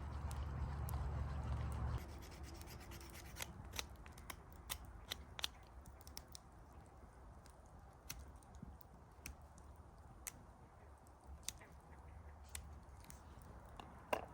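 A low rumbling hum that cuts off abruptly about two seconds in, then a run of irregular sharp clicks with light scratching and rubbing.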